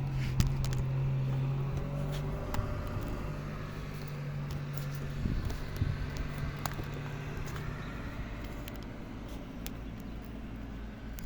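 Grape crusher machine's motor running with a steady low hum and scattered small clicks; the hum stops about eight seconds in.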